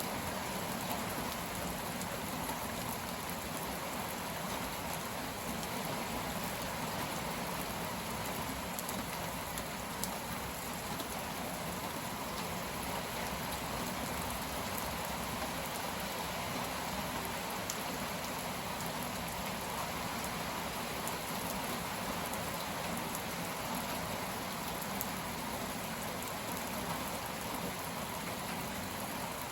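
Heavy rain falling steadily, with drops pattering on surfaces: the downpour behind a convective cold front.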